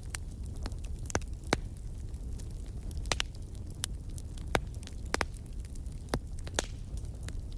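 Fireplace fire crackling: irregular sharp pops and snaps, about a dozen, over a steady low rumble.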